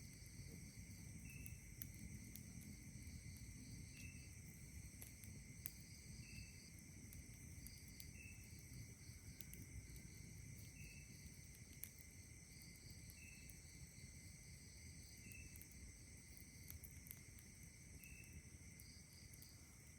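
Faint night chorus of insects trilling steadily, with a short high call repeating about every two seconds, a few faint campfire crackles, and a low breeze rumble.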